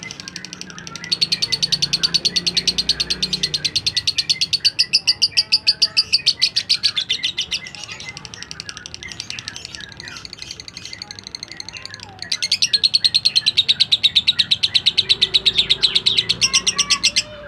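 Omyokan bird singing long, rapid trills of evenly repeated high chirps. One bout starts about a second in and fades out around seven seconds. A second bout starts sharply about twelve seconds in and runs to the end.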